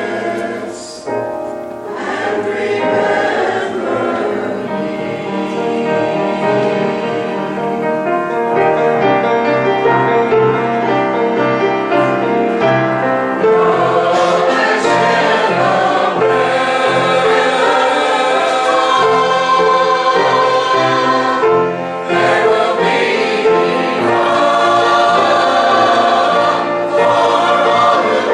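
Church choir singing a sacred cantata piece with instrumental accompaniment.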